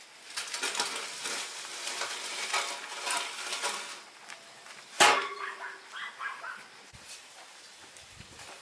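Iron bars clattering and clinking against each other as they are handled, then one sharp metallic clang about five seconds in that rings briefly.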